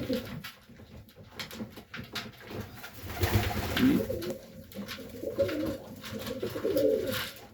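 Domestic highflyer pigeons cooing, repeated wavering low calls, with scattered light clicks and knocks from movement in the loft.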